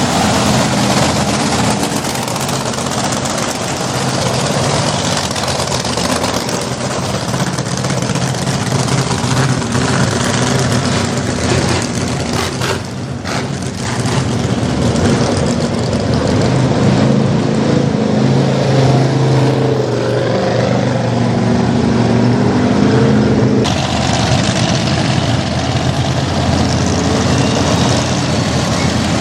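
Mini monster truck engine running continuously, its note shifting up and down in pitch as it is driven.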